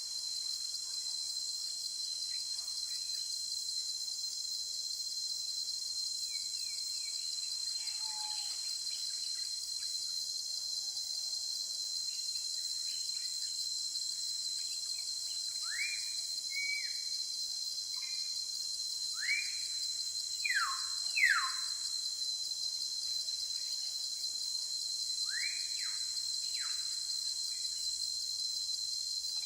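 Steady high-pitched insect drone with short rising bird chirps scattered through it, most of them about halfway in.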